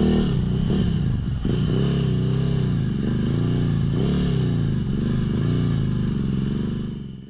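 Ducati Monster 1100cc V-twin snowbike engine running, its pitch rising and falling again and again with the throttle, with some clatter. The sound cuts off suddenly at the very end.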